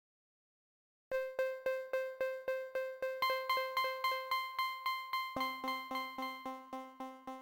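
A GarageBand software keyboard instrument repeating one high note about three times a second, each strike dying away quickly, after about a second of silence. About five seconds in, a lower note an octave down comes in and holds under the repeated note.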